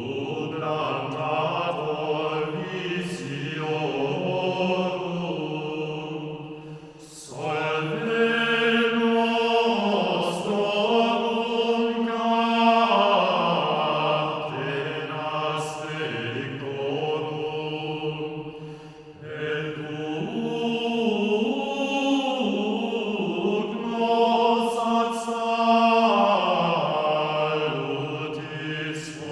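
Background music of chanting voices: long, slowly moving held notes, each phrase breaking off and starting again about seven seconds in and again about nineteen seconds in.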